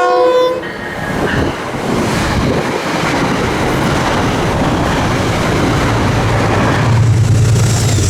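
A train horn sounds a chord that ends about half a second in, then a train passes with steady wheel and rail noise. A low hum grows stronger near the end.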